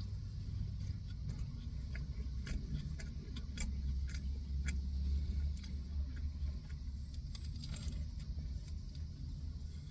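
Close chewing of a bite of a deli wrap with potato chips inside: scattered small crunches and mouth clicks over a steady low rumble.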